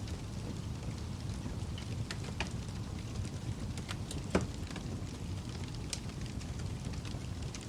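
Campfire crackling: a steady low rumble of burning with scattered sharp pops and snaps, one louder pop about four and a half seconds in.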